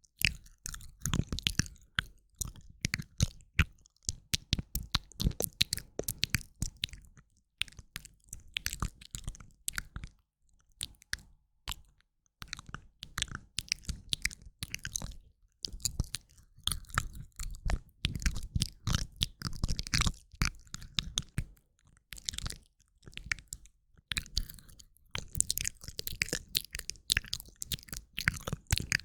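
Close-up ASMR mouth sounds from a woman: rapid runs of wet clicks and smacks, broken by short pauses around ten and twenty-three seconds in.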